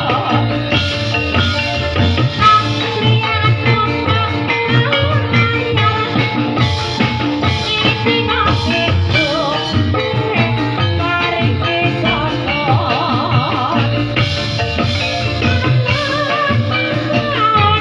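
Loud live Topeng Ireng accompaniment music: drums keeping a steady beat under melodic instruments and a wavering sung or played melody line.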